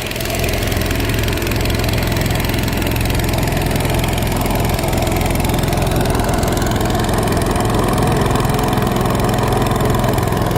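A motor or engine running steadily at an even pitch.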